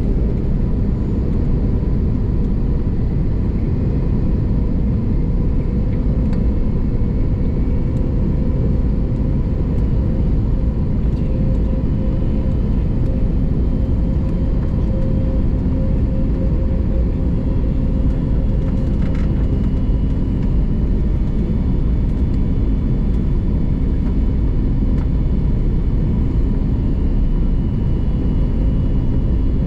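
Airbus A321neo in flight on approach: a steady rumble of engines and rushing air with a faint constant hum.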